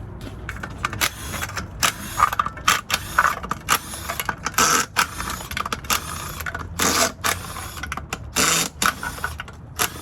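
Irregular metallic clicks, clanks and scrapes of hands and tools working on a pulled automatic transmission.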